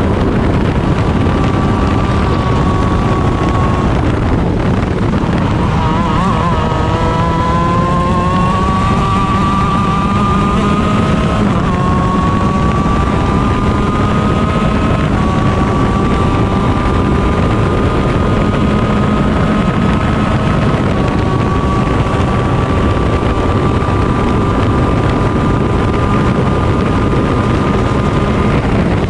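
Stock Honda 125 cc two-stroke shifter kart engine at race pace. Its pitch drops under braking about five seconds in, climbs through the gears with upshifts around twelve and fifteen seconds in, then holds high and steady down a long fast stretch.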